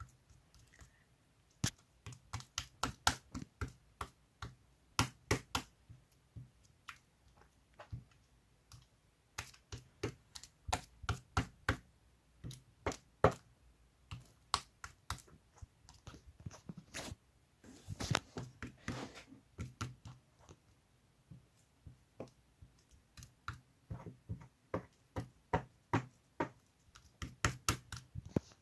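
Slime being squeezed, folded and mixed by hand, giving irregular runs of sharp popping clicks.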